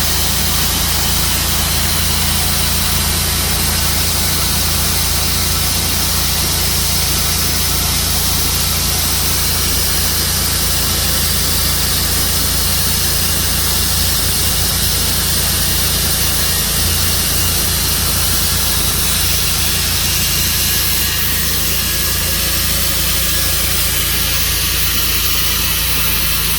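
An engine running steadily at a constant speed, with an even hiss over it, most likely the sawmill's engine.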